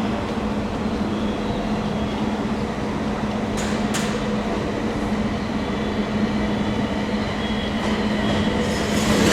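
A train running steadily with a constant low hum and faint high-pitched tones. There are two sharp clicks about three and a half and four seconds in, and the sound gets louder near the end.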